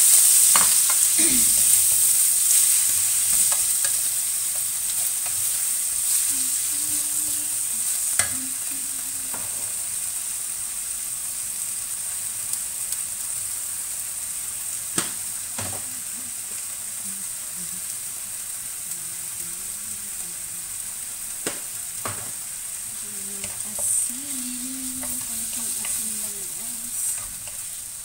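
Kailan (Chinese broccoli) sizzling in hot oil and garlic in a wok as it is stir-fried with a wooden spatula. The sizzle is loudest at the start, the greens just in the pan, and slowly eases, with a few sharp knocks of the spatula against the pan.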